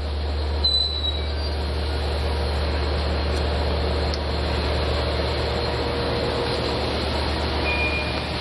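Steady low hum of a Long Island Rail Road diesel train, a DM30AC locomotive with C3 bilevel coaches, with an even rushing noise over it. A short high squeal comes about a second in and another near the end.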